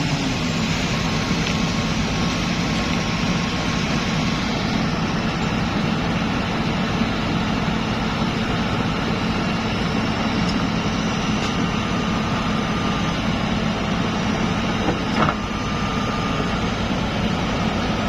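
Heavy diesel engine of construction machinery running steadily, with one brief sharp knock about fifteen seconds in.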